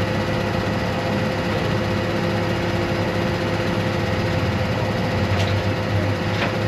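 A vehicle engine running steadily at an even level, with a constant hum, and two faint ticks near the end.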